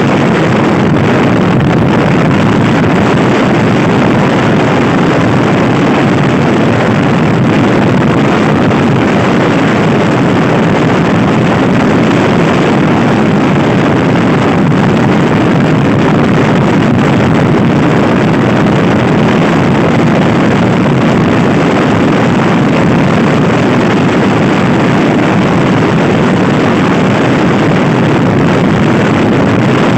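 Loud, steady wind rush on the microphone from riding a Honda Scoopy i scooter at speed, with the scooter's running drone mixed in.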